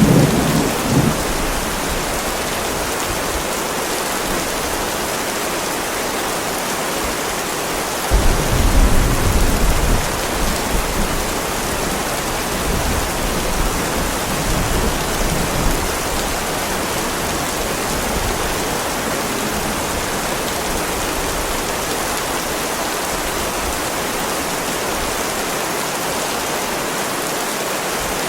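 Heavy rain falling steadily on a driveway, with a low roll of thunder fading in the first second and another rumble of thunder swelling about eight seconds in and dying away over a few seconds.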